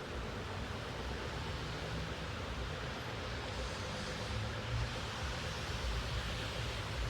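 Steady rushing noise with an uneven low rumble: a Metra commuter train hauled by EMD F40PH locomotives rolling away into the distance.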